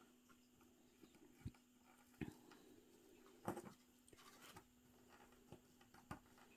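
Faint, scattered small clicks and taps of hands handling tiny miniature craft pieces, about five separate taps over a low steady hum.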